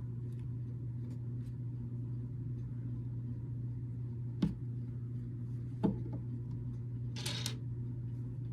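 Small plastic building bricks being handled and snapped together: faint ticks, two sharper clicks about four and a half and six seconds in, and a short rustle about seven seconds in, over a steady low hum.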